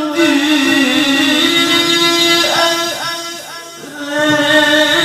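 A man's voice in melodic Quran recitation (tilawah), drawing out a long, ornamented note that wavers slowly in pitch. The voice falls away briefly about three and a half seconds in, then takes up a new held phrase.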